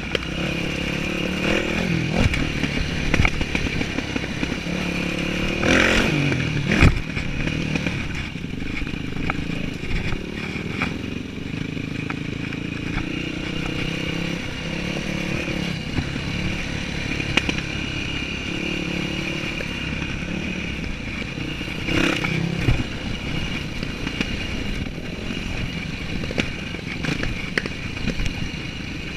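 Yamaha WR dirt bike engine running, its revs rising and falling, with clattering knocks over rough ground. The sharpest knocks come about six to seven seconds in and again about twenty-two seconds in.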